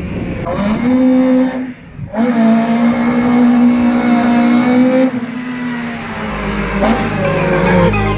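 Volkswagen Golf Mk1's ABF 2.0 16-valve four-cylinder, breathing through individual throttle bodies, revving hard at high rpm as the car drives up. There is a brief lift off the throttle about 2 s in, then a long held high note that eases down after about 5 s.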